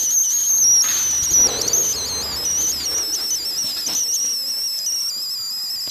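Pet budgerigar warbling: a continuous, wavering high-pitched chatter. About a second in there is a brief rustle, like wings or handling.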